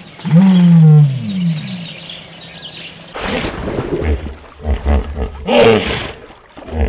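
A deep animal call that falls in pitch in the first second or so, then, from about three seconds in, a hippopotamus bellowing in a run of loud, deep grunts.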